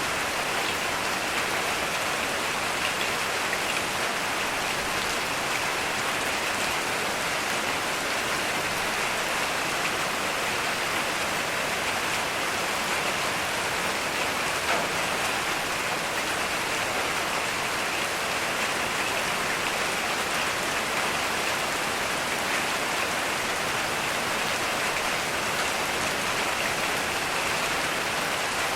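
Heavy rain falling steadily, an even hiss of many drops on surfaces with no thunder heard.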